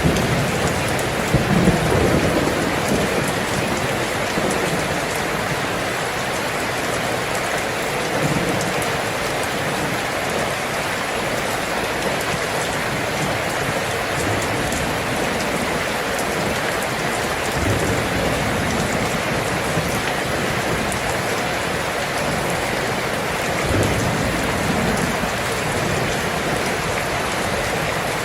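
Steady rain falling on a surface, with a few low rumbles of thunder that swell and fade now and then, one near the start.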